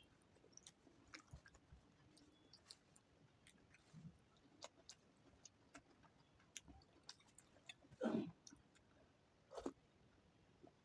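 Faint chewing and small wet mouth clicks of someone eating soft food, with two brief louder sounds about eight and nine and a half seconds in.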